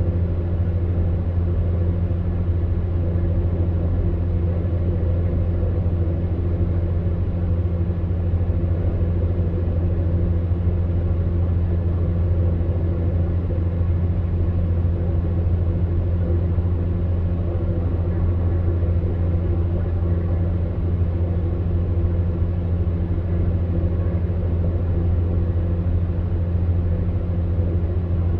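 Electric fan heater running steadily: a low hum under an even whir of blown air.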